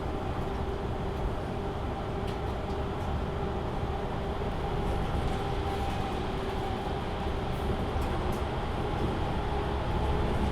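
Cabin sound of a MAN Lion's City A37 city bus under way: a steady engine and drivetrain drone with a low rumble and a constant hum. Road noise and a few faint rattles sit under it, growing slightly louder about halfway through and again near the end.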